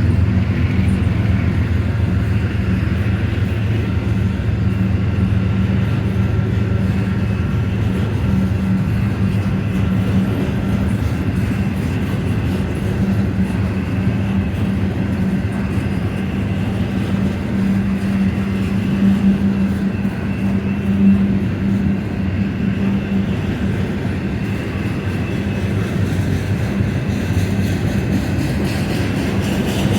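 Union Pacific freight train running by with a steady low drone that holds throughout.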